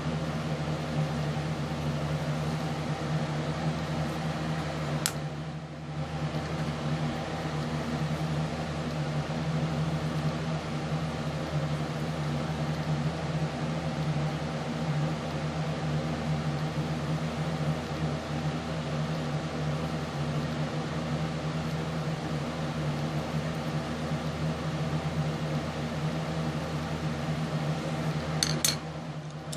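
A steady fan-like hum made of several constant tones. There is a brief click about five seconds in, and a few more clicks near the end.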